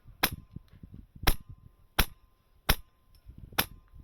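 Airsoft rifle firing single shots on semi-auto: five sharp cracks about two-thirds to one second apart. The rifle is a Wolverine MTW HPA-powered M4 shooting 0.3 g BBs.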